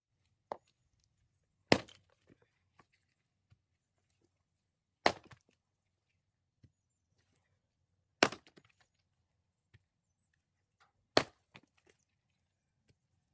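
Axe splitting firewood logs: four sharp chopping strikes about three seconds apart, each followed by a light clatter of split pieces.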